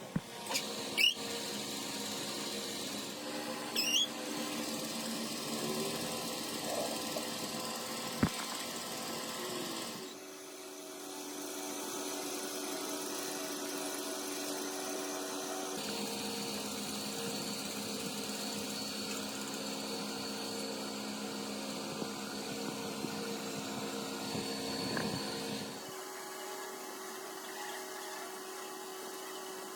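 Electric power tool running steadily in a workshop, with its hum changing abruptly a few times, and a few sharp knocks in the first several seconds.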